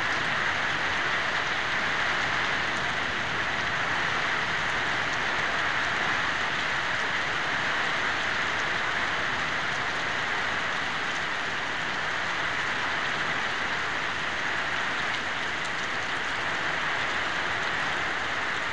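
Monsoon rain falling steadily, an even hiss of rain on surfaces that neither rises nor falls.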